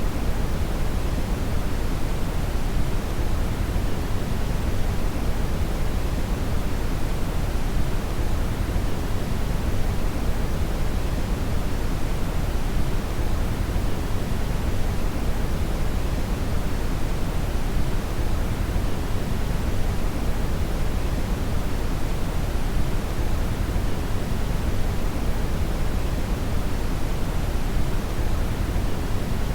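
Steady brown noise (red noise): an even, unchanging rushing hiss, weighted heavily toward the bass.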